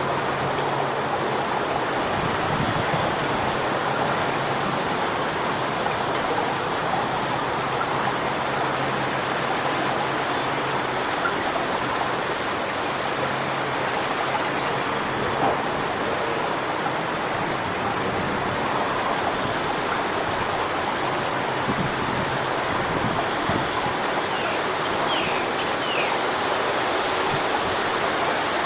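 Strong wind rushing steadily through coconut palm fronds, a continuous even rush of noise.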